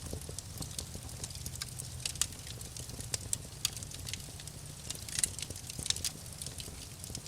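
Wood fire crackling in a fireplace: irregular sharp snaps and pops, a few louder ones, over a steady low rumble.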